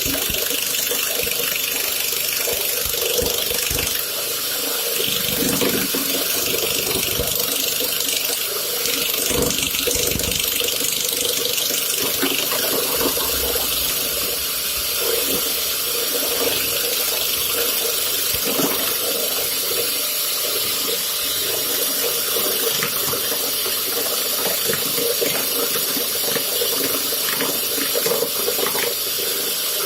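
Woodworking lathe running while a spinning steel workpiece is ground down with a hand-held abrasive stone: a steady, harsh hiss over the steady hum of the lathe.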